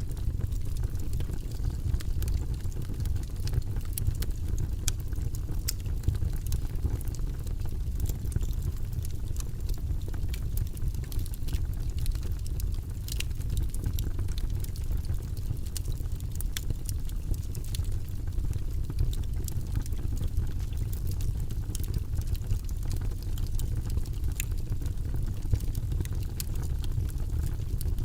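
Wood logs burning in a fireplace: a steady low rumble of the fire with scattered sharp crackles and pops at irregular intervals.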